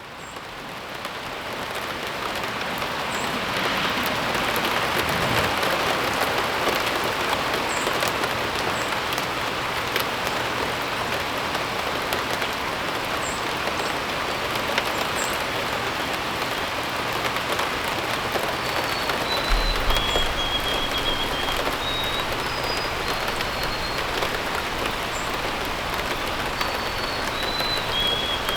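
Steady rain falling, fading in over the first few seconds. Small birds chirp faintly now and then, and from about two-thirds of the way in a bird whistles a series of short, held notes at different pitches.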